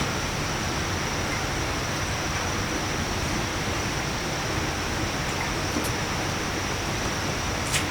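Steady rushing noise with a faint constant high-pitched tone running through it, and a brief click near the end.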